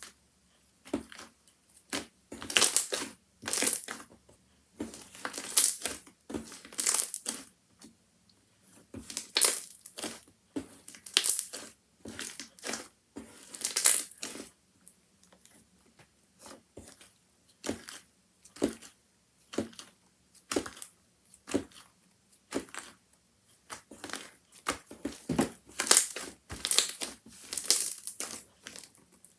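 Handmade slime being squished and worked by hand, giving irregular bursts of wet crackling, one after another with short pauses between.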